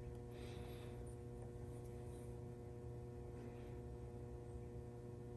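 Faint steady electrical hum as room tone, with a few soft, faint handling rustles.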